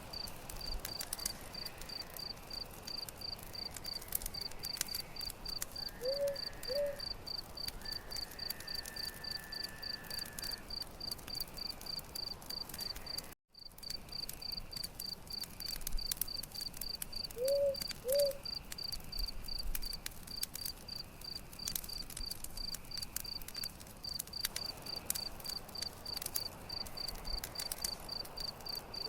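Campfire crackling with scattered sharp pops over the steady, evenly pulsing chirps of crickets. Twice, a pair of short two-note calls from a bird or animal sounds over it. The sound cuts out completely for a moment about 13 seconds in.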